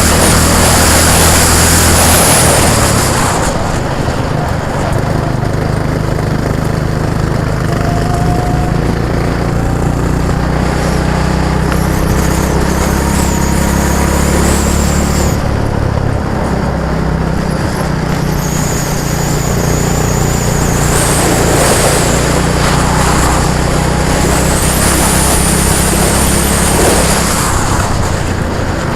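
A vehicle engine running steadily, with a high-pitched whine that comes and goes several times.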